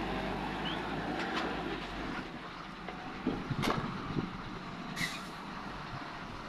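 Heavy diesel machinery, a truck and excavator, running steadily, with a few knocks and two short sharp bursts a little past halfway.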